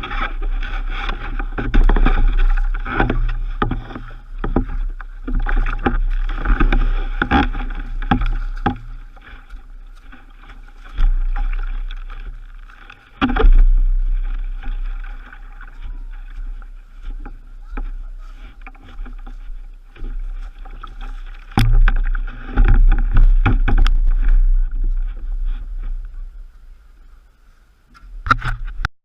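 Kayak out on moving water: irregular paddle strokes and water splashing, with a heavy low rumble underneath, in bursts that ease off a few times and fade near the end.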